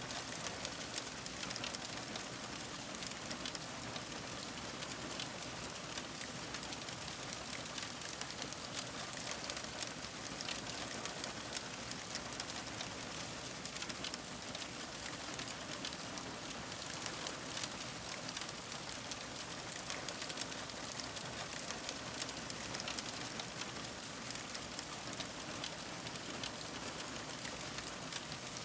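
Fire crackling steadily: a dense stream of small pops and snaps over an even hiss.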